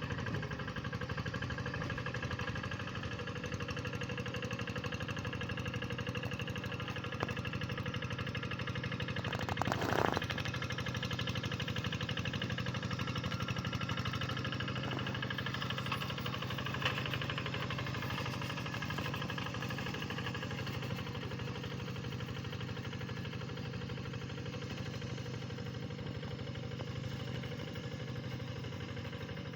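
Tractor engine running steadily at a constant speed, with one brief louder noise about ten seconds in.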